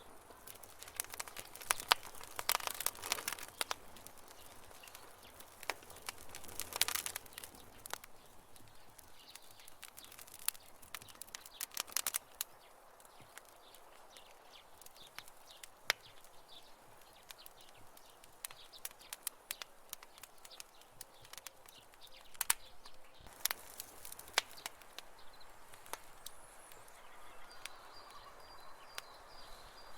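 Campfire burning with irregular crackles and sharp pops, coming in clusters over a soft steady hiss, and faint bird chirps behind it.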